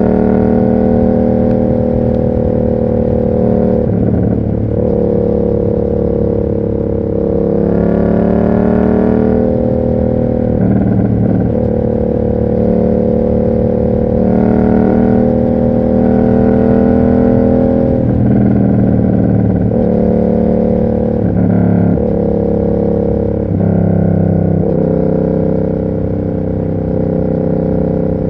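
Yamaha MT-07's parallel-twin engine through an SC Project exhaust, ridden with the revs climbing and dropping back again and again as it changes gear every few seconds.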